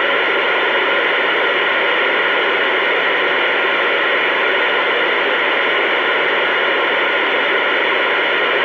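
Steady CB radio static: an even hiss from the receiver's speaker with nobody talking on the channel, and a faint steady tone running under it.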